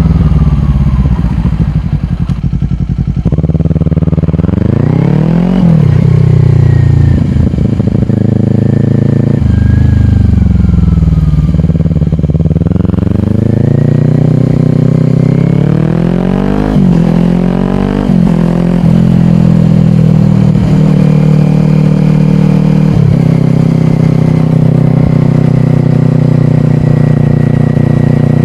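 2022 Kawasaki Ninja 400's parallel-twin engine through a slip-on exhaust, accelerating and easing off several times with quick gear changes, then holding a steady cruise for the last several seconds.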